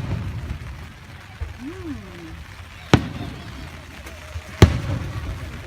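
Aerial firework shells bursting: two sharp bangs about a second and a half apart, each followed by a rolling rumble that dies away.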